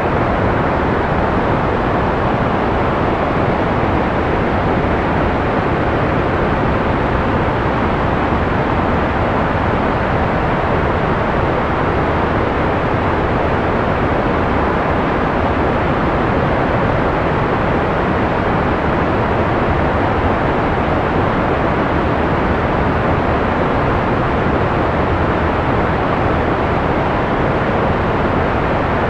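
Analog white noise: a steady, unchanging hiss with little high treble, so it sounds soft rather than sharp.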